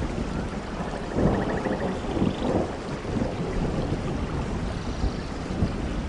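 Steady rain with thunder rumbling low underneath, swelling about a second in, and faint high trilling calls at times.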